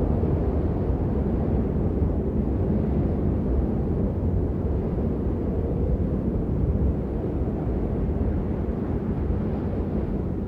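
Steady rain as an unbroken, even rushing noise, deep and muffled with little hiss on top, and no single drops standing out.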